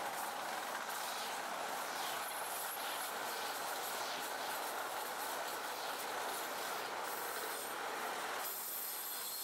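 A train rolling along the rails, a steady, even noise with faint high tones.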